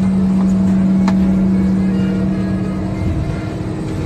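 Steady engine noise with a strong low hum that drops out about three seconds in, leaving a higher steady tone over the rumble.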